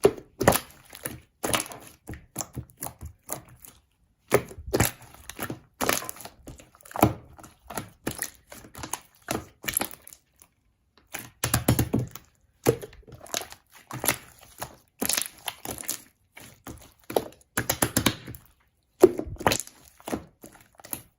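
Slime being squeezed and poked by hand, giving irregular sticky clicks and crackling pops in bursts with short pauses between them.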